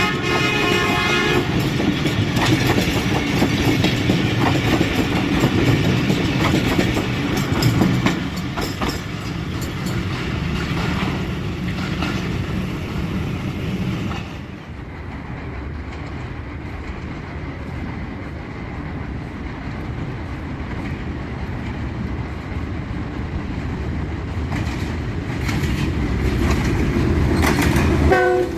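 A train horn sounds and stops about a second in. A train then rolls past with its wheels clattering over the rail joints, dropping to a quieter rumble about halfway through.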